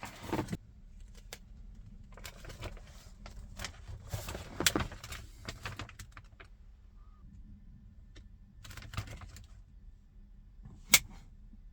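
Paper map being unfolded and handled, rustling and crinkling in irregular bursts, with a sharp click near the end.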